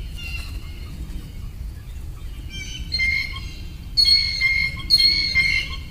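A bird calling with steady, high single-pitched notes: a short one about three seconds in, then two longer ones of under a second each.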